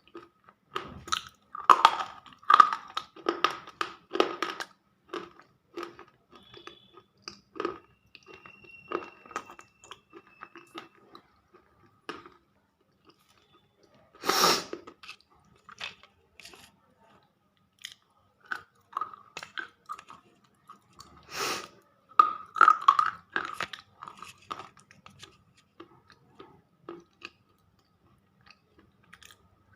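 Close mouth sounds of someone biting and chewing hard, dry clay in crunchy clusters, with two louder, sharp bites, one about halfway through and one about two-thirds of the way through.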